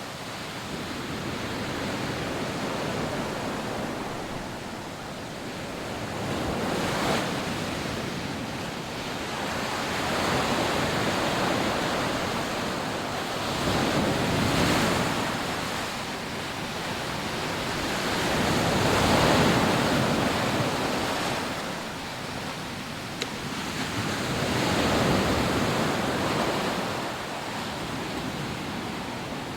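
Rough sea waves breaking and washing up a sandy beach: a continuous rushing surf that swells and fades about every four to six seconds.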